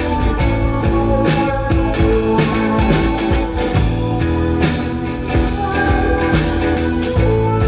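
A live rock band plays with guitar over a drum kit, keeping a steady beat of cymbal and drum hits under sustained chords.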